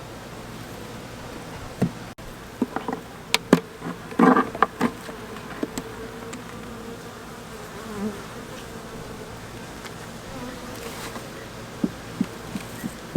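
Honeybees buzzing around an open hive during an inspection: a steady hum that drifts slightly in pitch. A cluster of sharp clicks and knocks comes a few seconds in, and a few more near the end.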